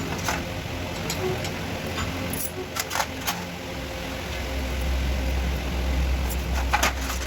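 Scattered sharp metallic clinks of tools and parts being handled during engine head work, a cluster of them around three seconds in and two more near the end, over a steady low hum that grows stronger about halfway in.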